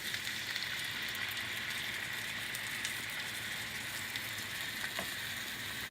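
Chicken pieces frying in hot oil in a pan: a steady sizzle full of fine crackling spatter, which cuts off abruptly at the end.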